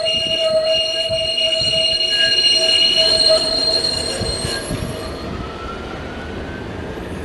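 Rail vehicle wheels squealing on the track, several steady high-pitched tones over a rumble, fading out about five seconds in. A faint rising whine follows near the end.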